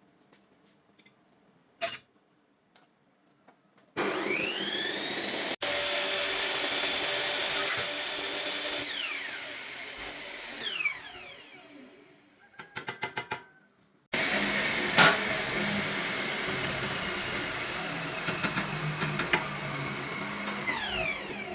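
Electric power tool run twice. Each time its motor starts suddenly and spins up with a rising whine, runs steadily for several seconds, then winds down. Between the two runs there is a quick string of about six clicks.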